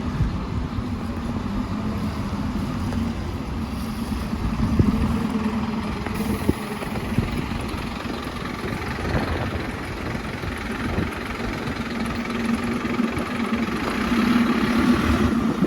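Scania OmniLink bus's diesel engine running with a steady low drone, growing louder near the end.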